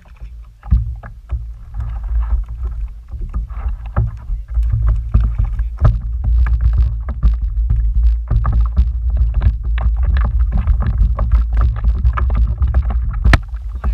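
Many short knocks and taps on a fishing kayak, over a steady low rumble, growing louder after about four seconds.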